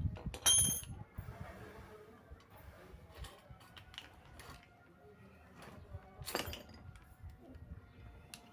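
Metal parts clinking and clicking as they are handled during bicycle repair work, with a ringing metallic clink about half a second in and another about six seconds in.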